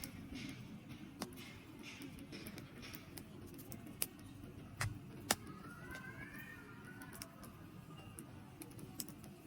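Wood campfire crackling: scattered sharp pops and snaps, a few louder ones near the middle, over a steady low rumble of burning.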